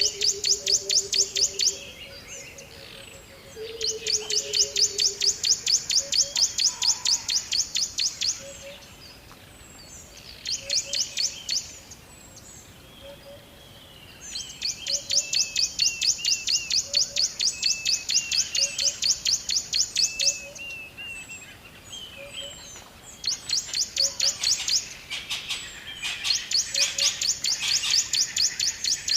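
Birds singing: rapid high-pitched trills in repeated bursts of a few seconds each, with a few short chirps between them and soft low notes repeating about once a second.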